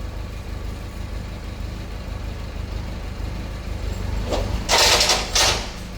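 Steady low mechanical hum of workshop machinery, broken near the end by two loud hissing bursts, the first about a second long and the second shorter.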